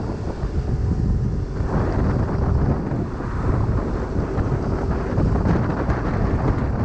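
Wind buffeting the microphone of a moving motorcycle, a steady low rumble with road and engine noise underneath.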